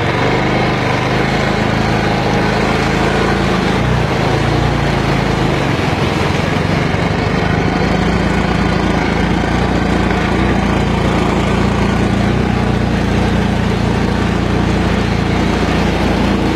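A vehicle's engine running steadily under a constant loud rushing noise, its pitch shifting slightly now and then.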